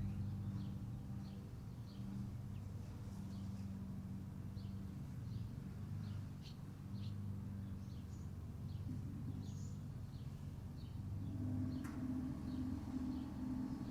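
Birds chirping in short, irregular high chirps over a steady low hum. About eleven seconds in, a second low hum that pulses evenly joins it, and there is a single sharp click just after.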